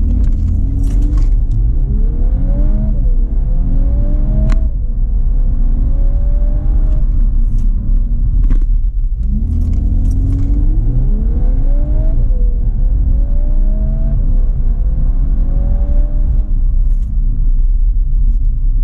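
VW Golf R Mk8's turbocharged four-cylinder engine, breathing through an Akrapovic exhaust, accelerating hard through the gears: the engine note climbs and drops back at each upshift, with a heavy low rumble throughout. About nine seconds in the engine briefly drops away, then pulls up through the gears again.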